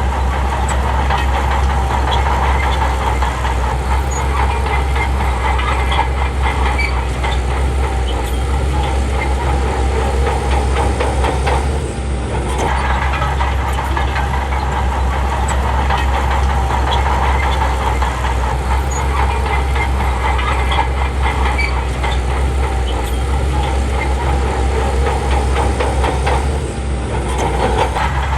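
Shantui crawler bulldozer's diesel engine running steadily under work, with a continuous metallic clatter, easing off briefly twice.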